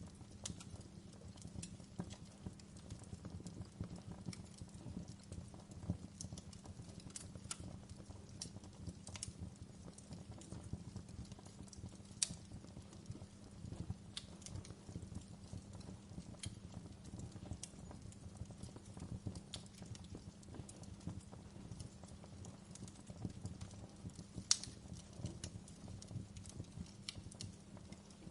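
Wood fire burning in a fireplace: a steady low rumble of flames under constant irregular crackling, with a couple of sharper, louder pops, one about halfway and one near the end.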